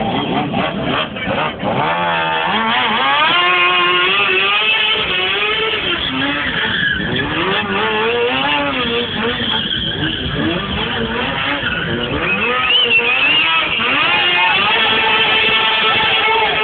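Motorcycle engines revving hard, the pitch climbing and falling again and again with overlapping engine notes.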